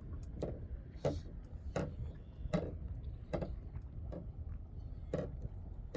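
Small waves slapping against a kayak hull in short knocks about every three-quarters of a second, over a steady low rumble of wind on the microphone.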